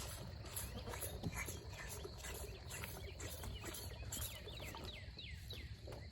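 Outdoor pasture sound with cattle close by: a steady low rumble, repeated soft rustling, and a quick run of short falling chirps about halfway through.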